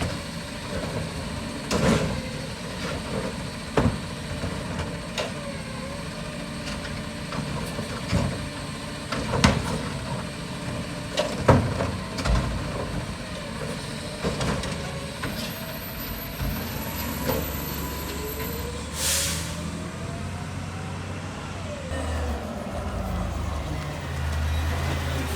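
Autocar garbage truck at work: its diesel engine runs steadily under a series of sharp metal clanks and knocks. About two-thirds of the way through comes a short burst of air-brake hiss, alongside a rising and falling mechanical whine.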